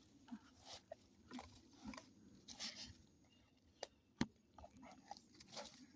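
Faint, scattered clicks and crunches of a dog mouthing a shed deer antler, with a sharper click a little past four seconds in.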